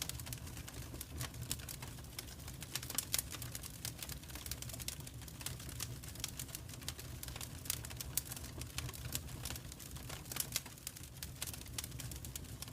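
Wood fire burning in a fireplace, crackling and popping in quick irregular snaps over a low steady rumble of the flames.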